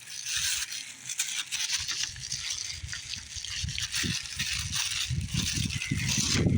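Plastic snack packaging crinkling and rattling as it is handled and opened, with irregular heavier knocks growing toward the end.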